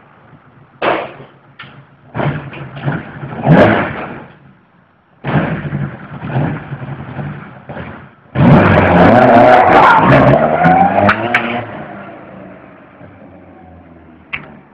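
Ford Escort rally car's engine revving in several short blips, then a long hard rev with rising pitch about eight seconds in that fades away.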